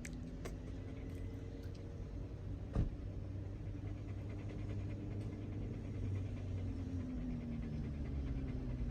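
Shiba Inu panting steadily while in labour, over a low steady hum, with a single click about three seconds in.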